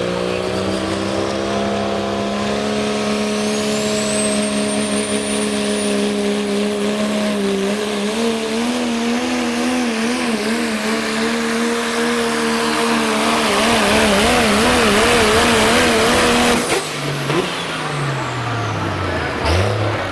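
Pro stock diesel 4x4 pulling truck's engine running hard at high revs under load, with a high turbo whistle rising early on. About halfway through the engine pitch starts to waver up and down. Near the end the engine cuts off suddenly and its pitch falls away as it winds down.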